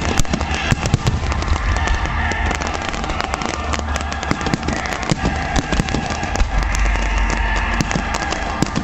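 Fireworks display: a dense, irregular run of bangs and crackles from shells bursting, over a steady low rumble.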